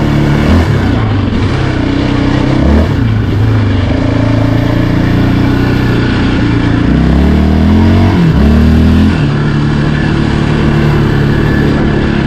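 Yamaha Raptor 700R ATV's single-cylinder engine running under way, with two quick rising revs about seven and eight and a half seconds in.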